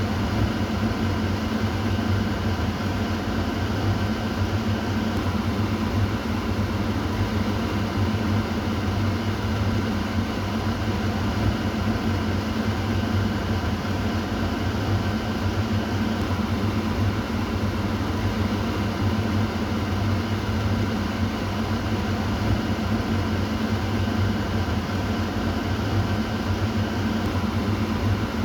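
Kitchen exhaust fan running steadily: a constant low hum with a whooshing rush of air and faint steady tones above it.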